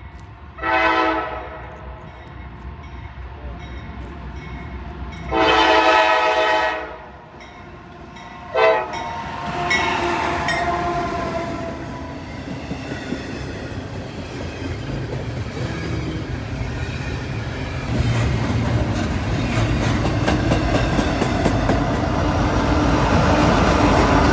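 Locomotive air horn sounding three blasts (a short one, a long one, then a brief toot), followed by a train drawing near and passing. The engine sound and wheel clatter over rail joints grow louder, stepping up about three-quarters of the way through.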